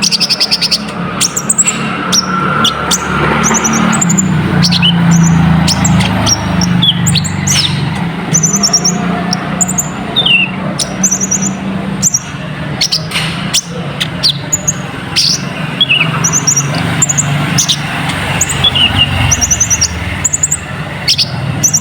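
A konin (kolibri ninja) sunbird singing in an excited, continuous run of short, high, rapid chirping phrases with quick falling notes between them. A steady low hum runs underneath.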